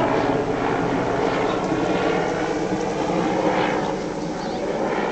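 Helicopter flying overhead, a steady drone of engine and rotor that eases slightly about four seconds in.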